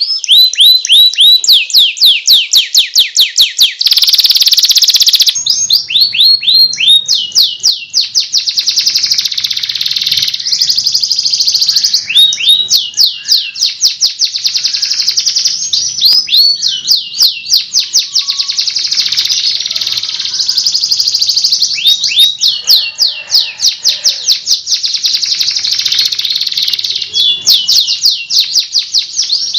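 Domestic canary singing a loud, continuous song of rapid repeated chirps and rolling trills, with a harsh buzzy phrase about four seconds in.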